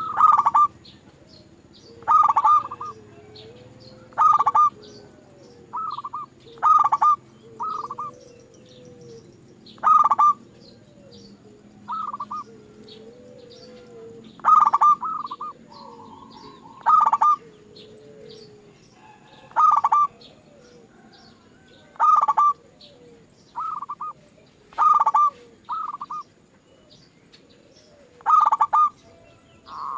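Zebra dove (perkutut) cooing: short repeated coo phrases, one about every two seconds, with faint high chirps between them.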